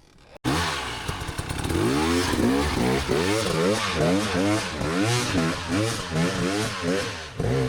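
Enduro dirt bike engine revving hard on a steep, slick hill climb, its pitch surging up and down about twice a second as the rider works the throttle. It starts abruptly about half a second in and drops away near the end.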